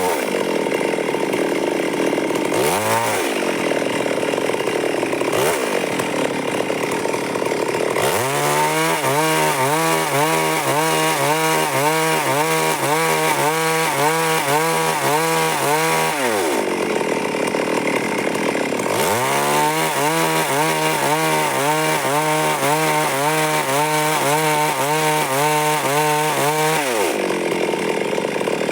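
Stihl MS382 two-stroke chainsaw cutting wood, running loud under load. Its engine speed dips and climbs again several times, and in the long stretches the pitch wavers up and down in an even rhythm.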